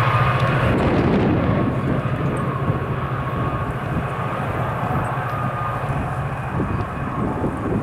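Electric passenger train passing: a steady low rumble that eases off after the first second or two as the train moves away.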